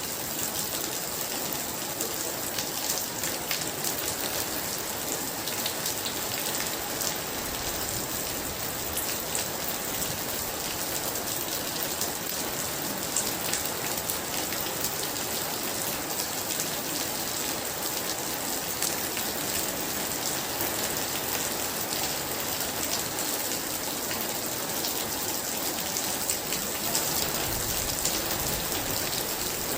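Very heavy rain falling steadily, a dense hiss full of close drop hits.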